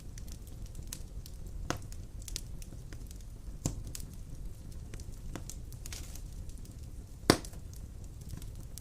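Wood fire burning in a fireplace: a steady low rumble with scattered crackles and sharp pops, the loudest pop a little over seven seconds in.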